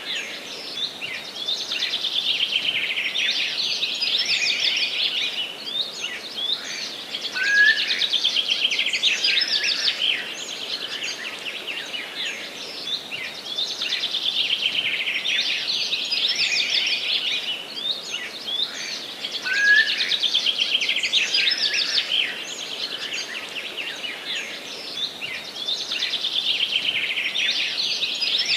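Many songbirds singing at once in a dense, continuous chorus of rapid trills and chirps that swells and eases every few seconds, over a faint steady hiss.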